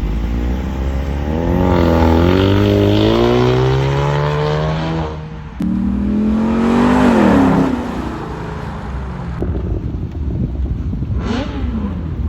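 A car engine revving hard, its pitch climbing steadily for about four seconds before cutting off sharply. A second loud burst of engine sound follows and eases off about eight seconds in, leaving a lower rumble of engines.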